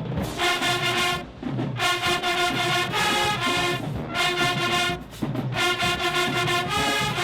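High school marching band playing, its brass section carrying the tune in loud phrases with brief breaks about a second and a half in and again around five seconds.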